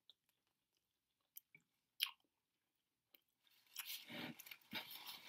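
Quiet chewing and small mouth clicks from people eating rolled turkey slices spread with honey and mustard, with a sharper lip smack about two seconds in. Soft murmuring sounds come in near the end.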